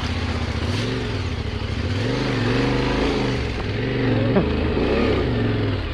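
Yamaha Ténéré 700's parallel-twin engine pulling at low speed, its revs rising and falling several times with the throttle.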